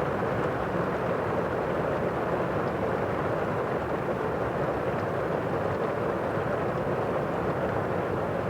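Heavy rain drumming on a roof, heard from inside the house as a steady, muffled rush with no let-up.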